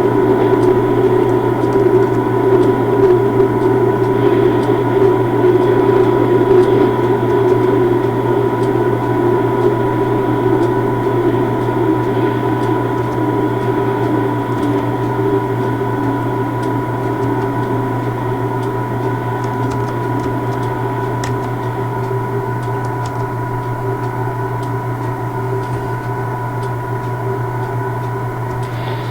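Railway locomotive running at standstill: a steady mechanical hum with a low drone and a few thin steady tones on top, slowly fading.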